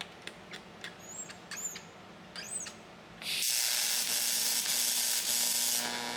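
A few scattered light clicks and squeaks, then a loud, steady spraying hiss that starts a little after three seconds in and lasts about two and a half seconds.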